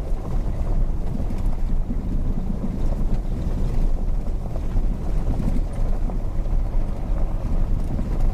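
Jeep WK2 Grand Cherokee driving, a steady low rumble of engine and road noise with some wind buffeting.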